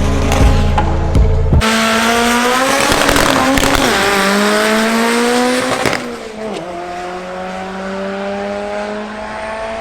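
Music with a heavy bass beat cuts out about a second and a half in, giving way to a car engine accelerating hard, its pitch climbing through the gears with upshifts about four and six and a half seconds in.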